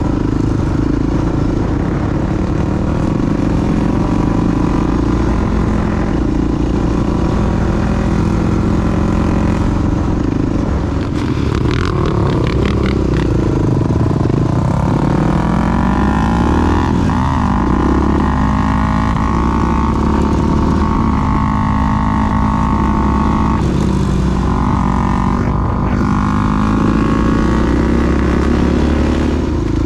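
Dual-sport motorcycle's four-stroke single-cylinder engine running under way, the steady engine note rising and falling in pitch with the throttle and gear changes around the middle.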